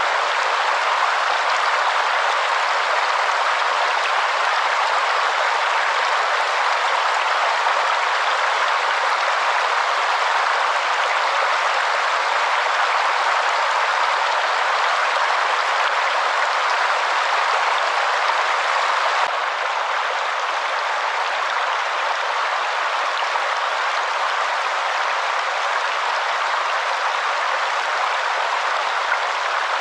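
Waterfall: a steady, unbroken rush of falling water, dropping slightly in level about two-thirds of the way through.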